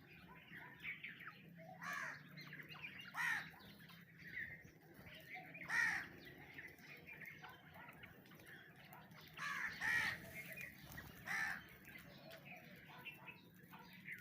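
Harsh, crow-like bird calls repeated at uneven gaps of a second or two, some louder than others, over a faint steady low hum.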